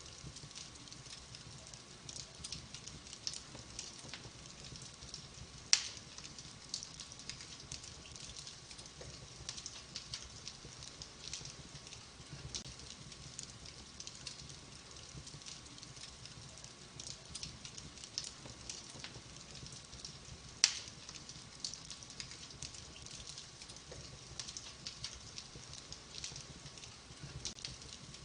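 Wood fire burning in a fireplace, crackling steadily with many small snaps. Two loud pops stand out, one about six seconds in and one about twenty-one seconds in.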